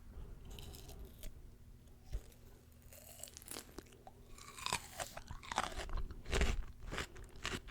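Close-miked mouth sounds of someone biting and chewing crunchy fresh fruit: quiet at first, then a run of wet, crisp crunches from about halfway in.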